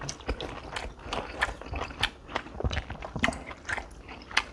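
Close-miked chewing of a mouthful of beef bulgogi and chewy rice cakes: irregular wet mouth clicks and smacks, several a second.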